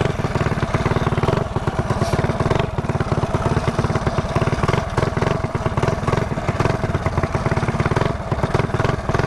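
Mini bike engine running steadily with a rapid, even pulse. The rider says the idle is set too high.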